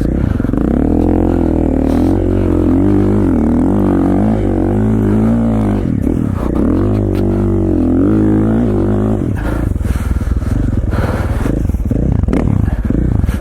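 KTM 450 XC-F single-cylinder four-stroke dirt bike engine under way, its revs rising and falling repeatedly as the throttle is worked in deep snow. After about nine seconds it drops to a lower, rougher note.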